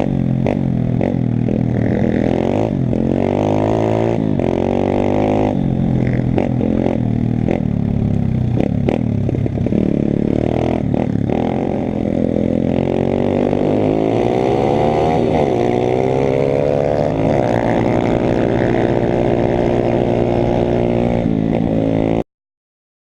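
YCF pit bike's small single-cylinder four-stroke engine being ridden, its pitch rising and falling again and again with the throttle, with short clattering knocks mixed in. The sound cuts off abruptly near the end.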